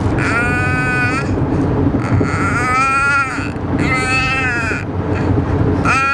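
Baby squealing in long, high-pitched shrieks: three held calls of just under a second each, with a fourth starting near the end.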